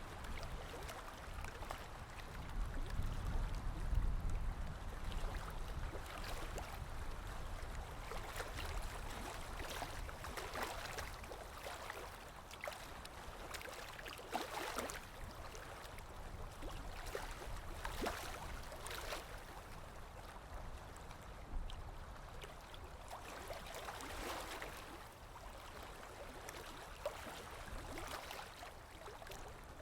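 Running water flowing and gurgling, with many small irregular splashes, and a deeper rush about three to four seconds in.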